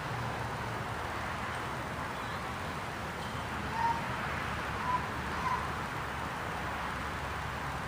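Steady buzzing of a honeybee colony at an open hive as the frames are inspected, with a few brief faint higher notes near the middle.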